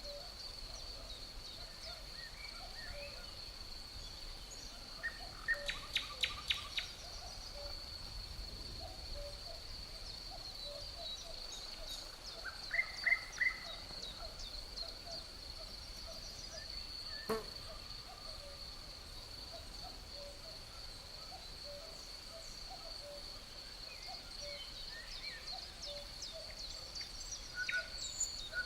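Crickets trilling in one steady high tone, with songbirds calling over it: a quick run of notes about six seconds in, three short notes about thirteen seconds in, and a single sharp click a few seconds later.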